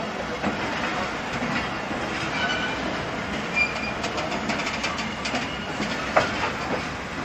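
Pakistan Railways passenger coaches rolling slowly past at close range: a steady rumble of wheels on track, with clacks over the rail joints and a few short high wheel squeals around the middle. A sharp clack about six seconds in.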